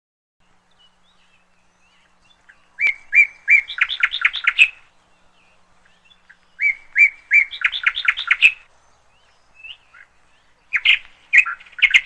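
A songbird singing two matching phrases, each a few clear notes followed by a fast run of notes, then a shorter burst of chirps near the end.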